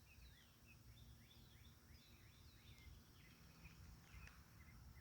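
Near silence outdoors: faint birdsong, a string of short chirps and whistles, over a low background rumble.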